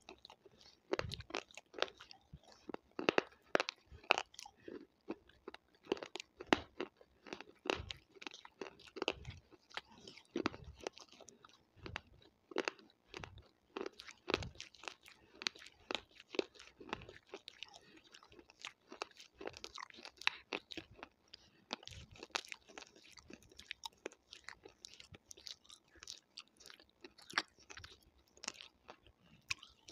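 Close-miked chewing and crunching in a person's mouth, a dense, irregular run of sharp crunches and wet mouth clicks.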